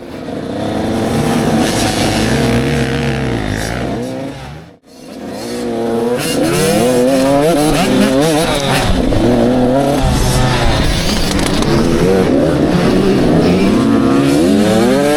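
Several 85cc two-stroke motocross bikes racing, their engine pitch rising and falling as the riders rev, shift and back off, with several engines overlapping. The sound cuts out briefly about five seconds in, then the bikes resume.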